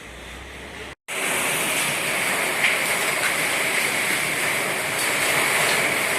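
Heavy storm rain pouring down, a loud steady hiss. It begins abruptly about a second in, after a brief break in the sound.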